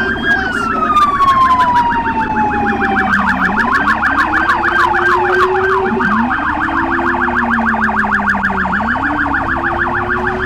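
Police car sirens, more than one at once: a slow wail rising and falling that switches about three seconds in to a rapid yelp, over a second, lower-pitched siren wailing slowly up and down.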